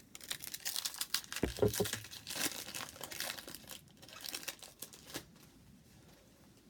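Plastic wrapper of a 2019 Leaf Draft football card pack being torn open and crinkled by hand. It goes as a dense crackle for about four seconds, thins out, and stops a little after five seconds in.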